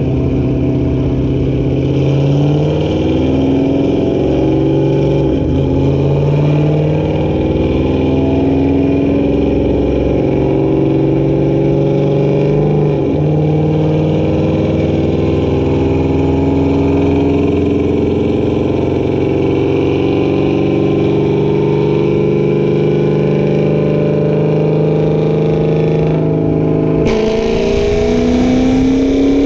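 Corvette Z06's V8 running hard on a chassis dyno, its pitch climbing in steps through the gears, with two brief breaks at the shifts. Near the end the sound changes abruptly to another rising pull.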